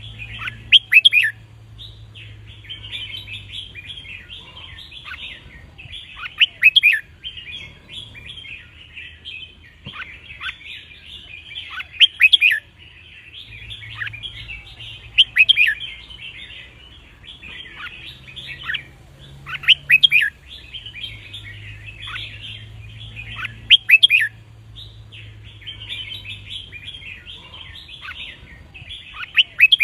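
Red-whiskered bulbuls singing: loud, quick song phrases burst out about every four to five seconds over continuous chattering. A faint low hum comes and goes underneath.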